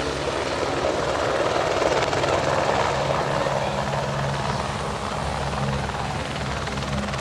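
Helicopter landing close by: steady rotor and engine noise over a constant low hum.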